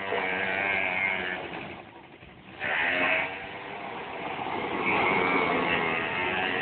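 Quad bike engine running. It drops off briefly about two seconds in, then revs up sharply and keeps running under throttle.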